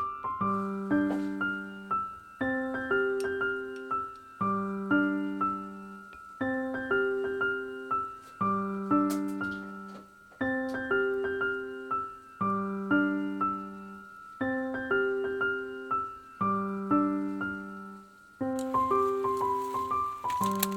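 Background piano music: a gentle repeating arpeggiated phrase, a low bass note with rising notes above, starting over about every two seconds.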